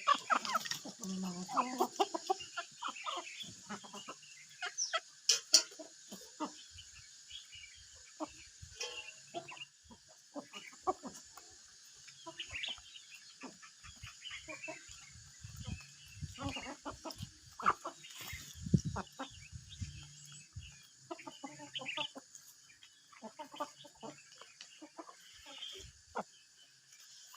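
Free-range chickens clucking: many short, scattered clucks and calls, over a steady high-pitched drone in the background.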